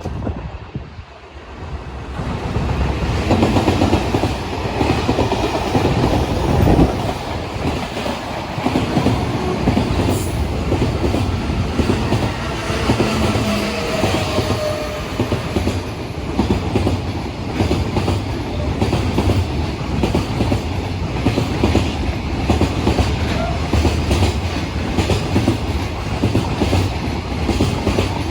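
Train passing close by, its wheels clattering rapidly over the rail joints with a heavy rumble that builds about two seconds in and then holds steady.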